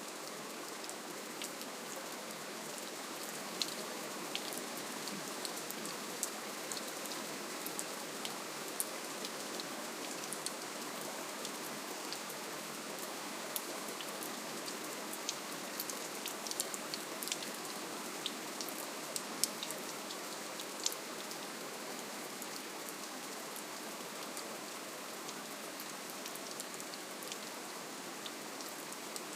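Steady gentle rainfall: an even hiss of rain with scattered individual drops ticking sharply on a surface, the ticks coming more often for a stretch in the middle.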